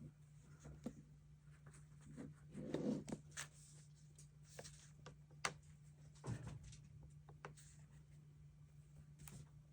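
Stationery being handled over a paper planner at a desk: soft paper rustles and scattered light clicks and taps, with a louder rustle about three seconds in and a couple of sharp clicks past the middle, over a faint steady low hum.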